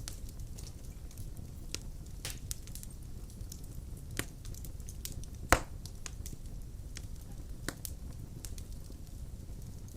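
Wood fire burning in a fireplace: a steady low rumble with scattered sharp crackles and pops, the loudest pop about five and a half seconds in.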